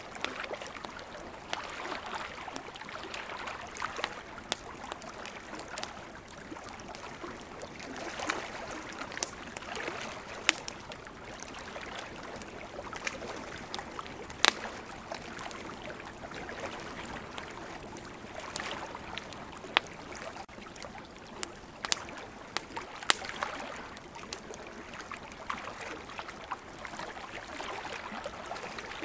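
Wood campfire crackling, with sharp pops at irregular moments, over a steady wash of ocean water that swells and eases.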